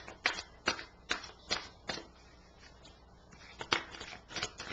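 Tarot cards being shuffled by hand: a run of sharp card snaps about two or three a second, a short pause, then more snaps near the end.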